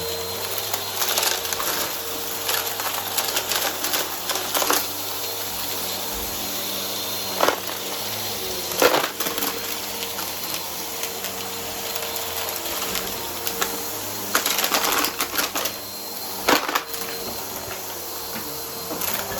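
Vacuum cleaner running with a steady motor whine while its brushroll crunches up debris: irregular sharp cracks and clicks, loudest about nine seconds in and again a few seconds before the end.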